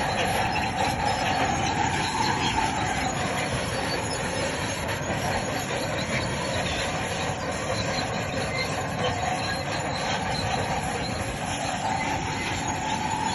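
Crawler bulldozer running steadily, its steel tracks giving a wavering high squeal with clanking as it moves.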